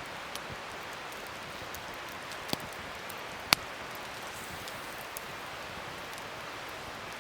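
Wood fire crackling: a steady hiss with a few sharp pops, the loudest about three and a half seconds in.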